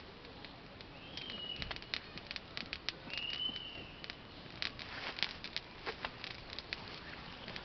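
Wood campfire crackling, with many irregular sharp pops over a low hiss. Two short high whistles come about one and three seconds in.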